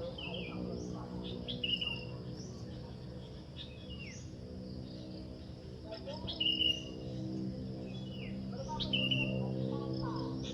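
Birds calling over and over in short calls, several sliding downward in pitch, every couple of seconds. Beneath them runs a low steady hum of pitched tones that gets louder in the second half.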